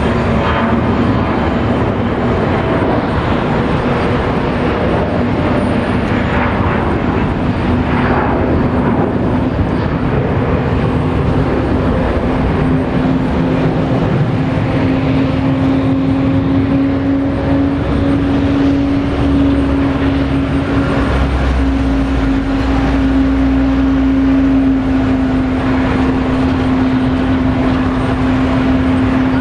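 Boeing 777-200's twin jet engines running loudly, with a steady low whine that rises slightly and then holds.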